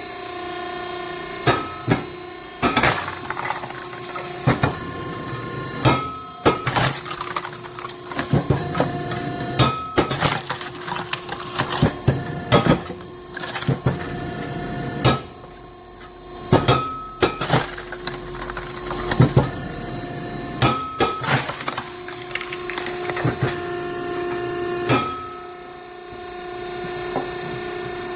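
Hydraulic log splitter (SSLJ100-600H) running with a steady hum while its cross-shaped wedge splits green oak rounds. Repeated sharp cracks and splintering of the wood come every second or two, with a brief lull around the middle.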